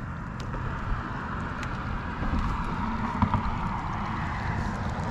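Small boat's motor running at low speed while trolling, a steady low rumble with water noise.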